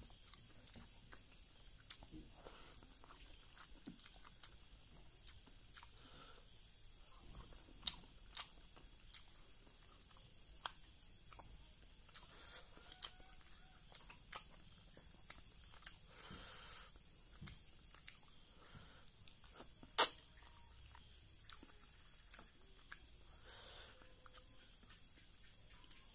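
Close-up eating sounds of a man eating rice and fish curry by hand: soft chewing and mouth smacks with scattered short clicks, the loudest a sharp click about twenty seconds in. A steady high-pitched hum runs underneath.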